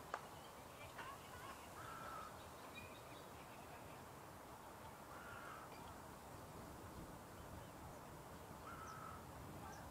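A bird calling three times, short calls of the same pitch about three seconds apart, over quiet steady background noise.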